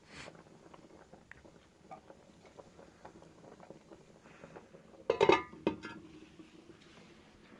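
Small knocks and clinks, then a loud metallic clatter about five seconds in: two quick hits with a brief ring after, like metal pots or utensils knocking together.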